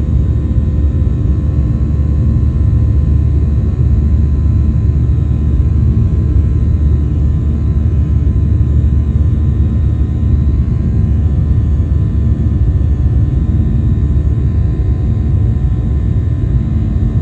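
Cabin noise of a Boeing 737-800 in its initial climb after takeoff: its CFM56-7B turbofans at climb thrust give a steady low rumble with faint steady whining tones above it.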